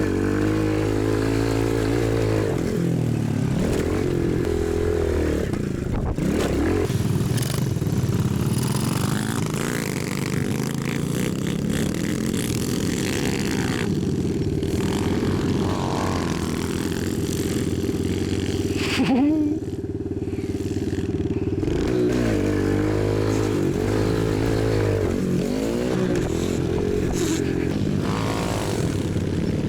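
Dirt bike engines running and revving, the pitch rising and falling again and again as the riders work the throttle.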